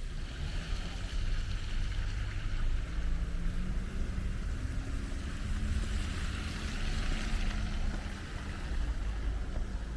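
Street traffic under heavy wind rumble on the microphone: a vehicle engine hums and rises slowly in pitch, and tyre hiss swells as it passes about two thirds of the way through.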